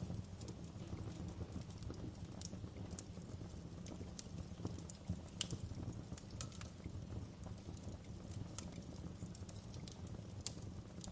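Fire crackling: irregular sharp pops and snaps, a few louder ones scattered through, over a steady low rumble of burning.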